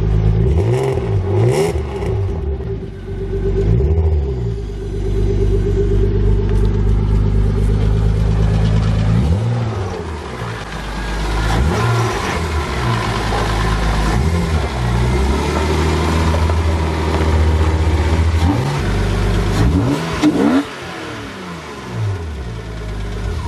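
BMW E36 engine revving again and again in throttle blips, each rising and falling in pitch, with steadier running between them. The revving stops abruptly about 20 seconds in.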